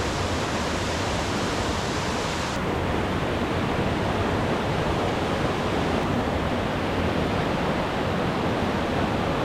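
Steady rushing roar of a swollen mountain brook running high after rain.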